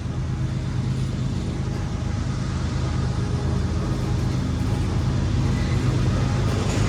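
Long, heavily loaded freight train rolling slowly past a grade crossing: a steady low rumble that slowly gets louder.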